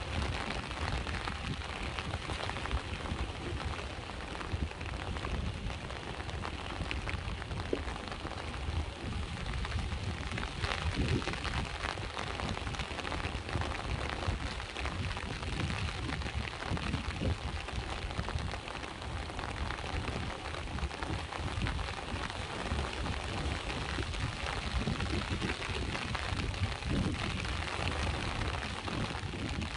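Steady rain with many small drop ticks, over a continuous low rumble of sea waves.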